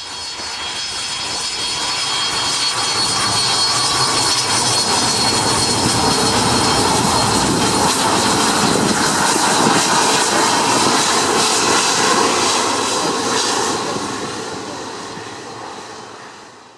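Jet airliner's engines passing close by: a loud rush with a high steady whine that swells over the first few seconds, holds, and fades near the end.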